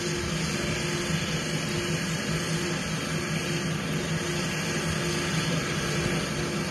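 Stone crusher running: a steady mechanical din with a low, wavering hum and no distinct single impacts.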